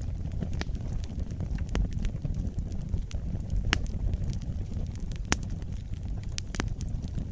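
Wood fire burning in a fireplace: a steady low rumble of flames with scattered sharp crackles and pops, the loudest pop about five seconds in.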